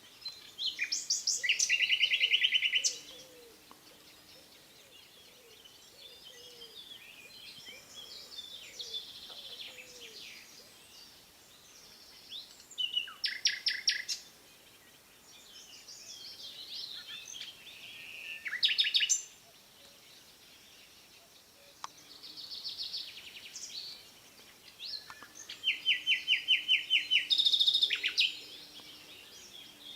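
Songbirds singing: four loud rapid trills, each lasting a second or two, with softer twittering chirps between them.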